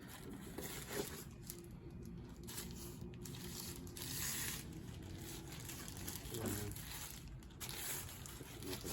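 Paper and plastic packaging rustling and crinkling as the contents of a new vacuum cleaner's box and its manual are handled, in irregular bursts.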